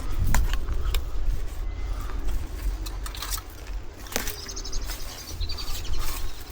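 Wind rumbling on the microphone during a walk, with scattered sharp clicks and knocks from footsteps and handling. A small bird gives a quick, high trill from about four seconds in.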